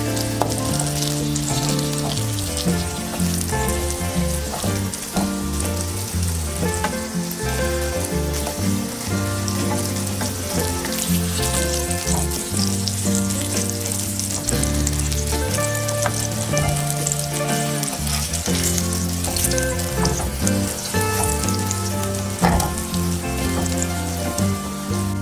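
Flour-dusted zucchini slices sizzling as they fry in oil in a nonstick pan, a steady hiss with small crackles and occasional scrapes of a wooden spatula turning them. Background music with steady bass notes plays throughout.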